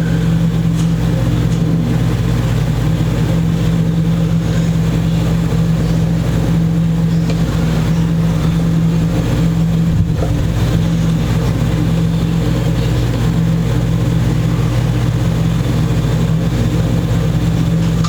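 Steady low mechanical hum, unchanging throughout, with a couple of faint clicks.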